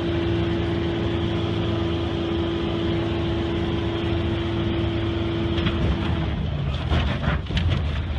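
Seaplane's engine running at full power during a takeoff run, heard from inside the cabin, with a steady drone. About six seconds in its steady tone drops away and a series of sharp cracks and knocks follow as the plane strikes trees.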